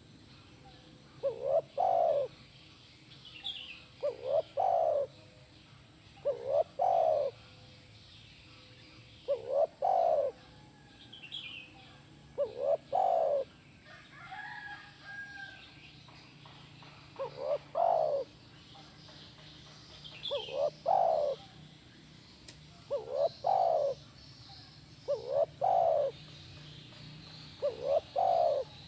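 Spotted dove cooing, repeating its short two-to-three-note phrase about every two and a half seconds, with a longer pause near the middle. Faint chirps of small birds sound between phrases, over a steady high whine.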